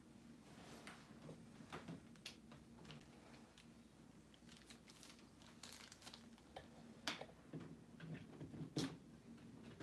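Near silence: faint room tone with a low steady hum and a few scattered soft clicks and taps.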